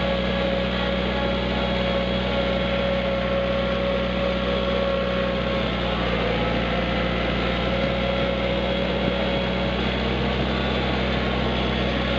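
Kubota tractor engine running steadily, an even drone with no change in speed.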